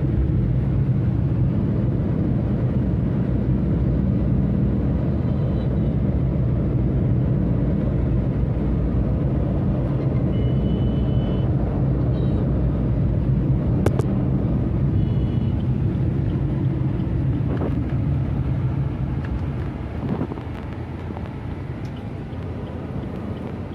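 Steady low rumble of a vehicle running, with a couple of brief faint high squeals, easing off slightly near the end.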